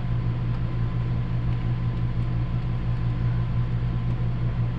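Steady low hum of running machinery, with a few faint clicks.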